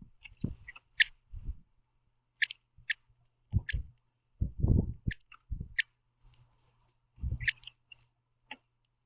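Male northern cardinal giving quiet, sharp chip notes, about eight of them spread unevenly over several seconds, with short soft low thumps in between from the bird on the feeder.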